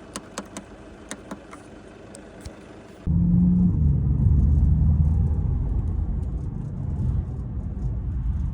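Light plastic clicks and rattles, a few a second, from the Mercedes CLA's loose fender liner (splash guard) being worked. About three seconds in, this cuts suddenly to the loud, steady low rumble of the car driving.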